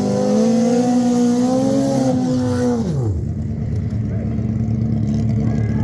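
Drag-racing motorcycle engine held at high revs, its pitch wavering, then falling sharply about three seconds in; a lower, rougher engine note follows.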